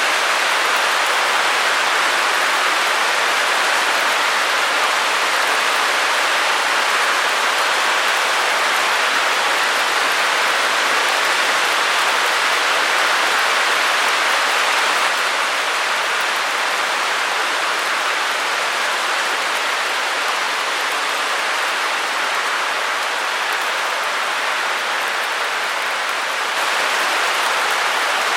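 Steady white noise: an even hiss with no low rumble. Its level drops slightly about halfway through and comes back up near the end.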